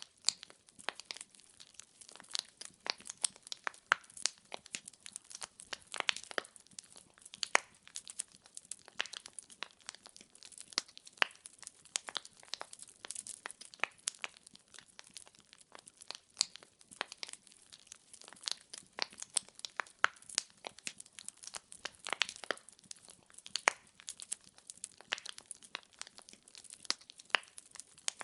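Wood fire crackling: dense, irregular snaps and pops of burning logs, several a second, over a faint hiss.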